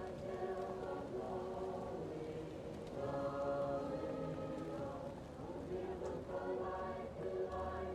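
Choir singing slow sustained chords, muffled as if from another room, over the faint crackle and pops of a fireplace.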